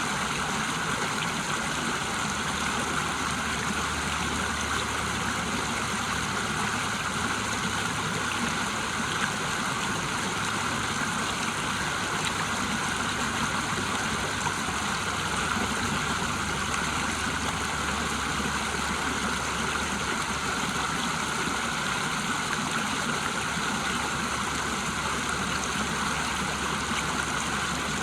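River water rushing over a waterfall: a steady, unbroken rush of water.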